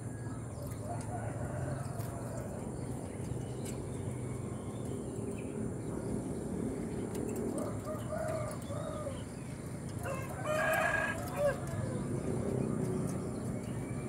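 Bird calls over a steady low background hum: soft arching calls a little past the middle, then a louder ringing call lasting about a second, some ten and a half seconds in.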